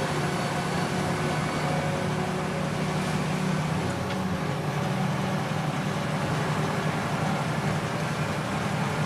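Logging truck's diesel engine running steadily at road speed, a low, even drone.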